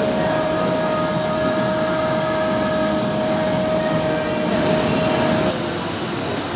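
HO scale model train running, its small electric motor giving a steady whine over a constant background noise; the whine stops about five and a half seconds in.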